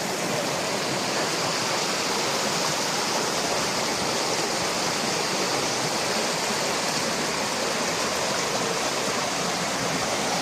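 Steady rush of flowing water, like a mountain stream or small cascade, unchanging throughout.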